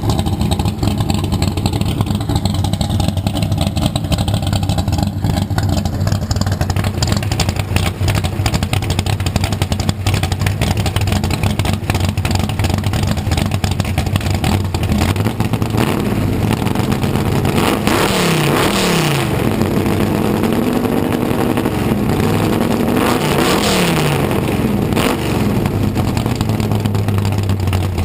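Cammed, carbureted small-block Chevy V8 running through a boom-tube exhaust: it idles steadily, then from about 15 seconds in is revved up and down several times, and settles back to idle near the end.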